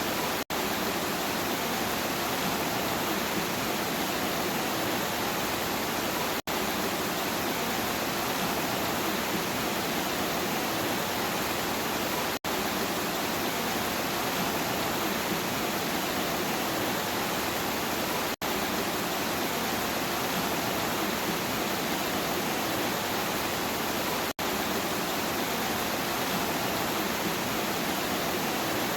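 Steady rain noise, an even hiss with no separate drops or thunder standing out. It cuts out for an instant about every six seconds.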